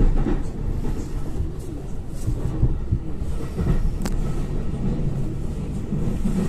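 Train running on the rails, a steady low rumble with a sharp click about four seconds in.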